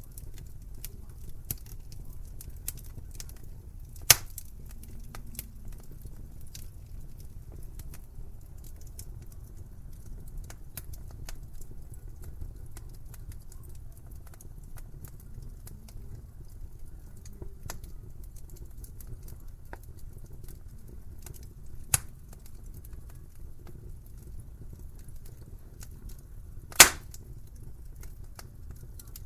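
Fireplace fire crackling over a low steady rumble, with frequent small ticks and sharp pops; the loudest pops come about four seconds in, about 22 seconds in, and near the end.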